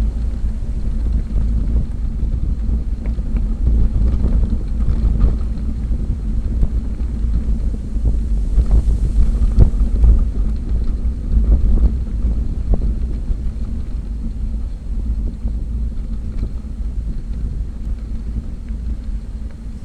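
Wind buffeting the microphone of a camera on a moving bicycle: a steady low rumble that swells louder for a couple of seconds around the middle, with a few faint clicks and knocks.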